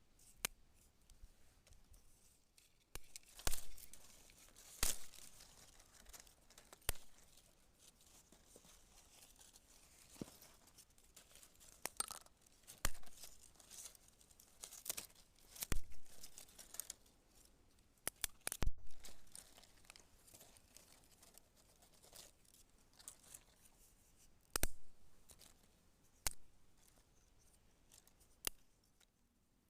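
Wood campfire crackling: sharp snaps and pops at irregular intervals, with a few brief rustling crackles in between, over a faint steady hiss.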